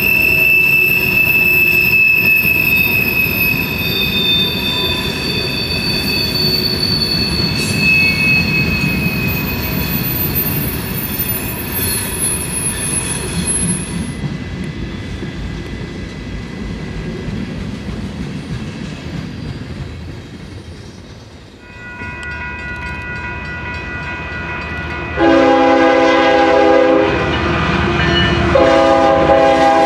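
Freight train passing, its wheels screeching with several high steady squeal tones over the rumble of the rolling refrigerated boxcars, dying away over the first half. Later, a Union Pacific GE C45ACCTE's multi-chime air horn sounds a long blast about 25 seconds in and another near the end, the crossing signal as the locomotives approach a grade crossing.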